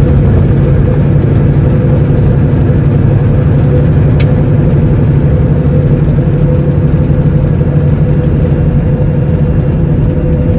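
Semi truck's diesel engine running with a steady, even drone, with one short click about four seconds in.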